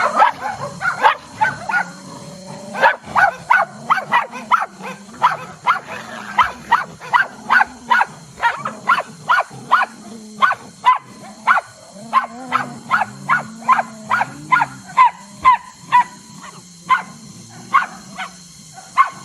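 Dogs barking over and over in a steady run, about two short barks a second.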